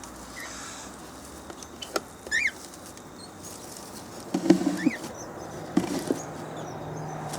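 Short high bird chirps, two of them about two seconds apart, over light rustling and clicks of a bird being handled. A louder, low pitched sound comes about four and a half seconds in.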